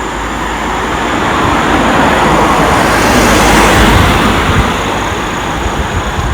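A vehicle passing close by, its noise swelling to a peak about three and a half seconds in, then fading away.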